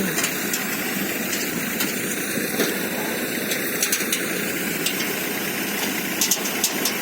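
Sonalika diesel tractor engine running steadily along with the threshing machine it pulls, with a few sharp clicks about six seconds in.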